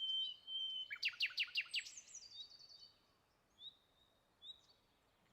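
Wild songbirds singing: a held high whistle, then a quick run of about six sharp falling notes about a second in, followed by a few faint short calls.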